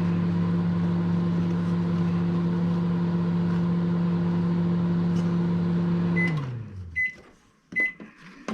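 Microwave oven running with a steady hum, then shutting off about six seconds in, the hum sliding down in pitch as it winds down. Three evenly spaced high beeps follow, signalling the end of the cooking cycle.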